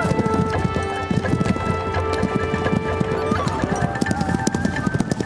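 A large herd of horses galloping, a dense, irregular clatter of hoofbeats, over background music with long held notes.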